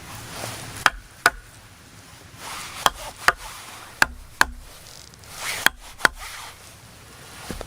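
A tool striking wood: eight sharp knocks that come in four pairs, the two in each pair a little under half a second apart.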